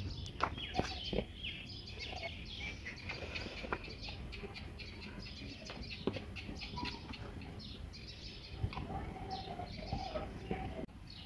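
Many small birds chirping continuously, with a few short knocks mixed in.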